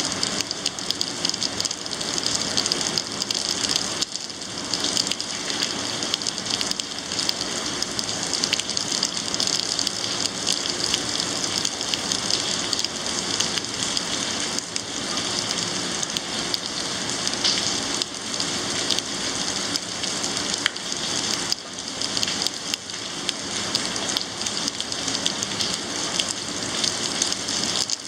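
Steady rain falling, an even hiss of drops with many small ticks of drops striking nearby.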